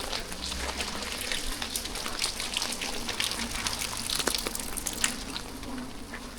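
Steady rain falling, with many separate drops ticking close by over an even hiss.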